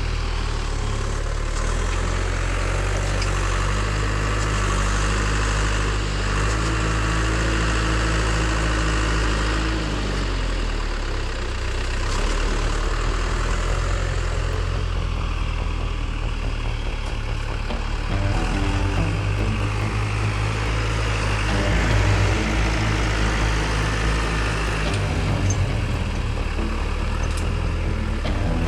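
A low-pitched engine running steadily, its note shifting about ten seconds in and holding at the new pitch.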